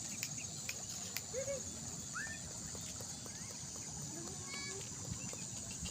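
Birds giving scattered short chirps and calls over a steady high-pitched drone, with a brief clear pitched call near the end and a few faint clicks.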